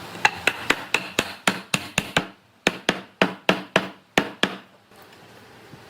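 Hammer striking wood in quick, evenly spaced blows, about four a second: a run of about nine, a short pause, then about eight more.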